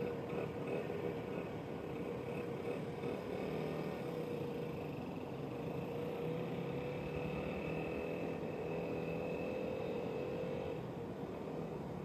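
Dirt bike engine running at a steady speed, its pitch creeping up slightly before the whine drops away about eleven seconds in.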